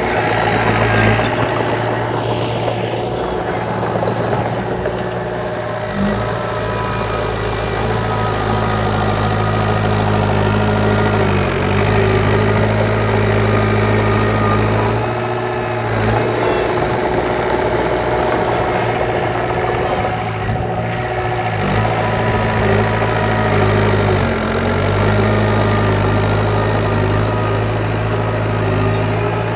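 Heavy diesel engine of earthmoving machinery running steadily, its low note shifting every few seconds as the load changes.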